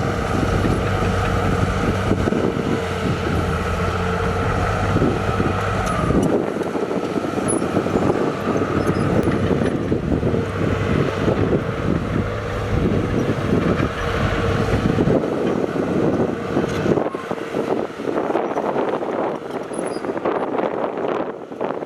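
Diesel engine of heavy earthmoving machinery running. A steady low drone for about the first six seconds gives way to a rougher, noisier sound, and the deep part fades from about fifteen seconds in.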